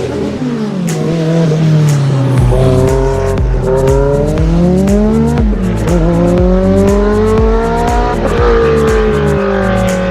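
A car engine revving, its pitch rising and falling over several seconds, mixed with electronic music whose bass beat comes in about two and a half seconds in.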